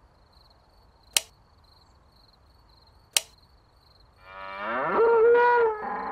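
Two sharp clicks about two seconds apart, then a cow's long moo that rises in pitch and holds, breaking off briefly near the end.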